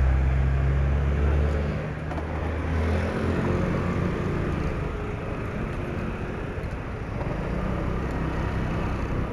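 Motor vehicle engine and road noise heard while riding a motorcycle in traffic; a deep, steady engine hum is loudest at first and drops away about three seconds in, leaving a lower running rumble.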